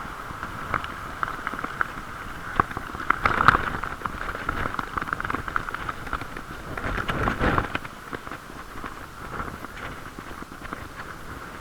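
Wind and riding noise from a bicycle ride on a stormy day, muffled through a camera's waterproof case, with scattered ticks and knocks. A louder gust of wind rumbles on the case about seven seconds in.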